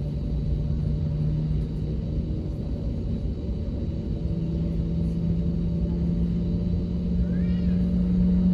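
Airbus A321neo cabin noise: a steady engine rumble with a low hum that rises slightly in pitch about four seconds in.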